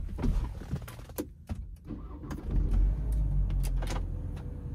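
Car engine starting from inside the cabin about halfway through, then settling into a low steady idle. A few sharp clicks come before it: button presses and the central door lock.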